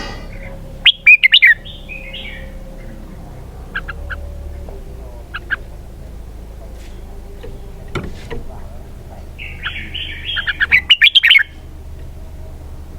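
Red-whiskered bulbul singing: a loud burst of quick warbling notes about a second in and another near the end, with a few short single chirps between.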